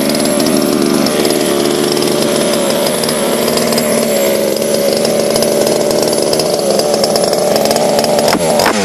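The newly fitted 30cc two-stroke gas engine of a large-scale RC monster truck running steadily at a fast idle. Near the end the pitch sweeps up and down as the throttle is blipped.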